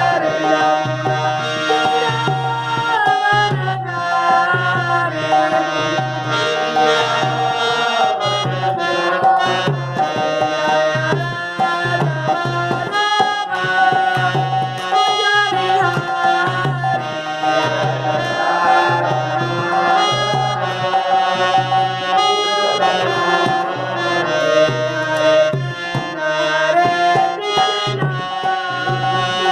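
Devotional kirtan music: a harmonium's sustained reed chords over a hand drum keeping a steady beat.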